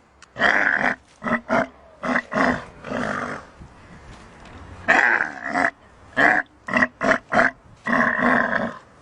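An animal calling: about a dozen short pitched calls in two clusters, with a pause in the middle.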